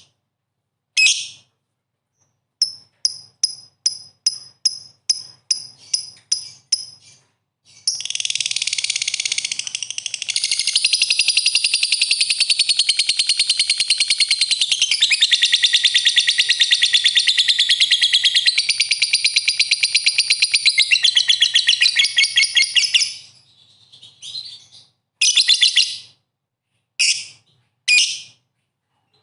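Lovebird singing in full voice. First a run of about a dozen short high chirps at roughly three a second, then one long, fast, unbroken chattering song of about fifteen seconds, then a few separate chirps near the end.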